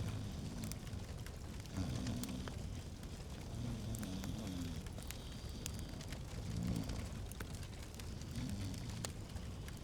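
Wood fire crackling in a fireplace: scattered sharp pops and snaps over a steady hiss, with soft low swells of flame every couple of seconds.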